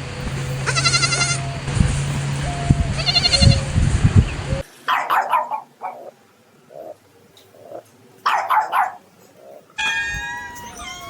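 Bleating: several quavering, wobbling calls in the first half, then two shorter calls a few seconds apart. Near the end a cat starts meowing.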